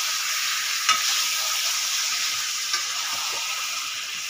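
Marinated chicken with onions and green chillies sizzling in a steel pan while a metal spatula stirs it, the chicken cooking in its own juices with no water added. There is a sharp clink of the spatula against the pan about a second in and a lighter one near three seconds.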